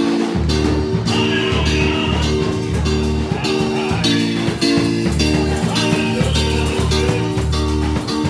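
Live band music with guitar, bass and drums playing a steady beat.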